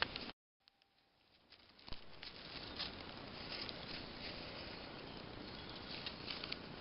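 Spring forest ambience: a steady hiss with many faint, light ticks and patters. It drops out completely just after the start and fades back in over the next second or so.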